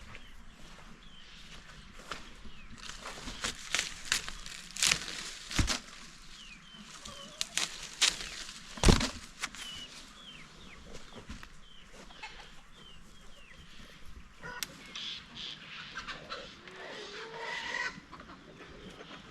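Chickens clucking and chirping, mixed with scattered sharp knocks and clatters.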